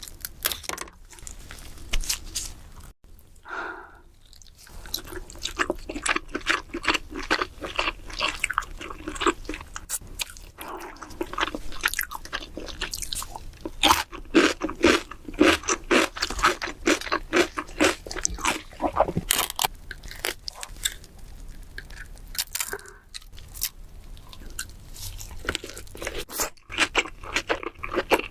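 Close-up crunching, cracking and chewing of king crab legs and shell, a dense run of crackles and clicks that gets louder and busier about halfway through, with a brief short pitched sound near the start.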